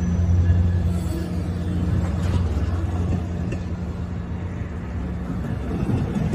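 MARC bilevel commuter train rolling past on the platform track: a low steady drone that fades over the first few seconds as the locomotive draws away, with the coaches rumbling by and a few wheel clicks near the end.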